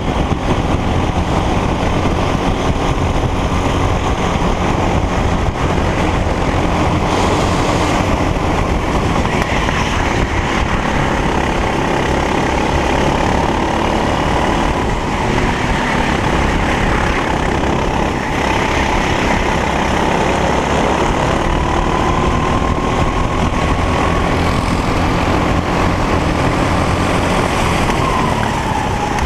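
Racing kart engine running hard and continuously, its pitch slowly rising and falling with the revs and dropping near the end, with other engine tones mixed in.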